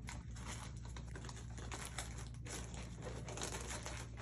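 Faint crinkling and rubbing of twisted latex balloons being handled, as irregular scratchy strokes over a steady low hum.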